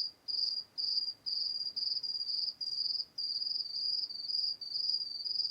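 Cricket chirping: a high, trilled chirp repeated evenly about twice a second.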